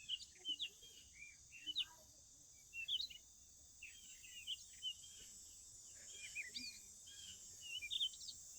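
Wild birds chirping: many short, quick rising and falling chirps from several birds, over a steady high hiss.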